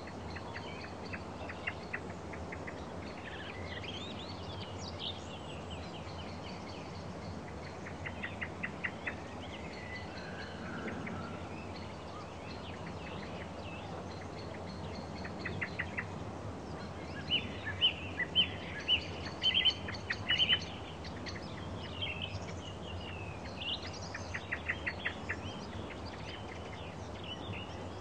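Small birds singing and chirping, with short quick runs of repeated notes, loudest in the second half, over a steady low background noise.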